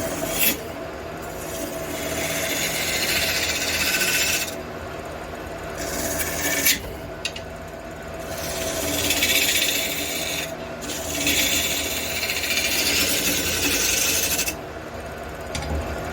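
Wood lathe running with a steady hum while a tool is pressed against a spinning block of aromatic red cedar in several passes. Each pass is a hissing scrape lasting a few seconds, with short pauses between.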